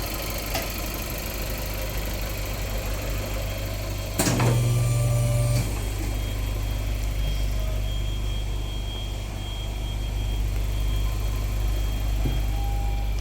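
Volkswagen Golf Mk7 1.4 TSI turbocharged four-cylinder idling through an aftermarket Thunder muffler with quad stainless exhaust tips, with one short rev about four seconds in that holds for a second or so before dropping back to idle.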